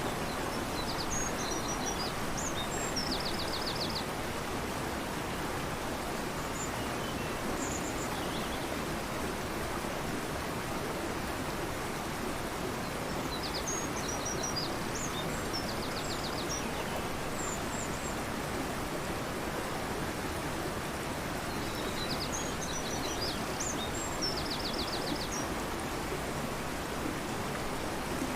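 Fast-flowing river rushing steadily, with a songbird singing the same short phrase three times, about ten seconds apart, each ending in a quick trill.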